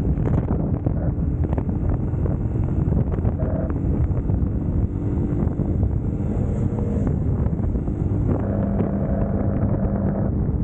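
Wind rushing on the microphone of a riding motorcycle, with the UM Scrambler X's engine running underneath. The engine note shifts a little midway and holds steady near the end.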